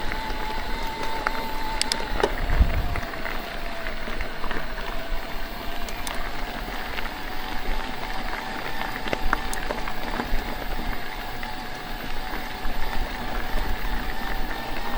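Electric mountain bike riding over a rough trail: the mid-drive motor whines steadily, its pitch dipping slightly and rising again, over tyre and gravel noise, with a heavier knock from the bike about two seconds in.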